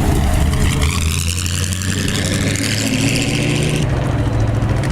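Vintage midget racecar engines running, with one car accelerating in a rising whine from about a second in that cuts off sharply near four seconds.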